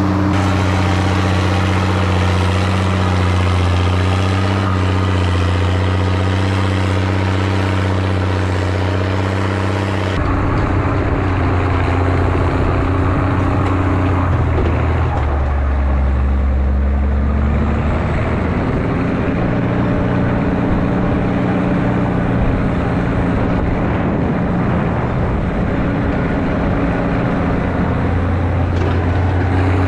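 Zetor ZTS 16145 tractor's turbocharged six-cylinder diesel engine running steadily under the load of a deep cultivator. About a third of the way in the sound turns rougher and duller, the engine note sinks around the middle, then it settles back into a steady pull.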